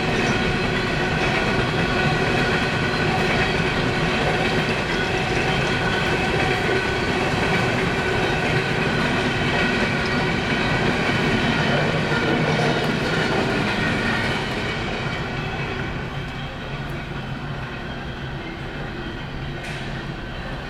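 Empty CSX coal hopper cars rolling past on the rails, a steady loud clatter of wheels and cars that eases somewhat about two-thirds of the way through.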